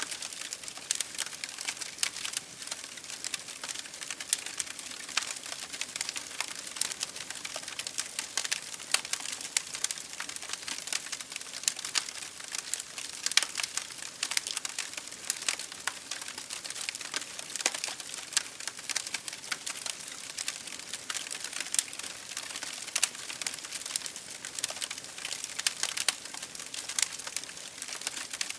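Wood fire in an open fireplace crackling, with dense irregular pops and snaps over a soft hiss.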